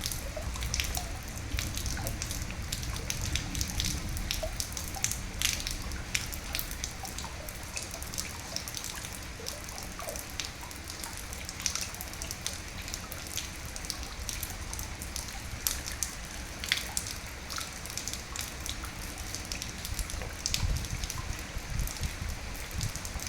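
Steady rain, with many separate drops striking sharply; a low rumble swells briefly about twenty seconds in.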